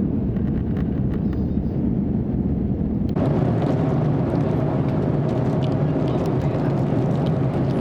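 Steady rumble of jet engines and airflow heard inside the cabin of an Airbus A330-300 in flight. About three seconds in the sound abruptly turns brighter and more hissy.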